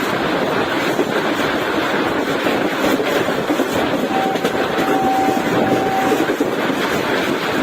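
Passenger train running at speed: the coach's steady rolling and rattling noise. About four seconds in, a single steady high tone sounds for about two seconds over it.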